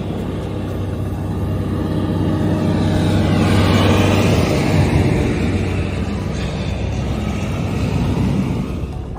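An engine running steadily with a low hum, its noise swelling louder about four seconds in and then easing off.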